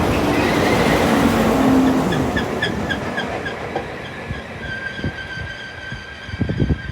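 Northern Class 195 diesel multiple unit running into the platform and slowing. Its noise fades steadily, with a short falling hum about two seconds in and a steady high squeal from the wheels or brakes in the second half.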